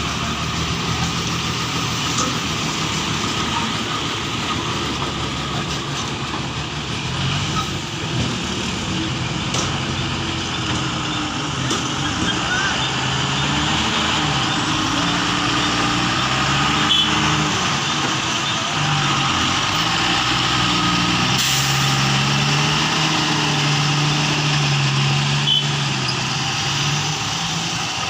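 Heavy diesel engine running, its pitch rising and falling as the load on it changes, with a short hiss about 21 seconds in.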